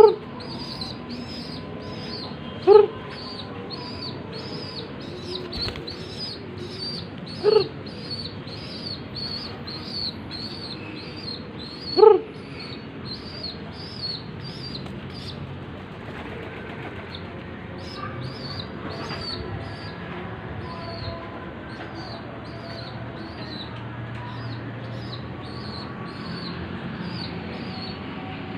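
Young pigeon flapping its wings as it learns to fly, with four short, louder calls in the first half. A high chirp repeats steadily about one and a half times a second throughout.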